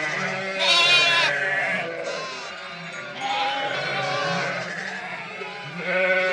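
A flock of sheep bleating, several overlapping quavering calls. The loudest, highest bleat comes about a second in, with further loud ones after about three seconds and near the end.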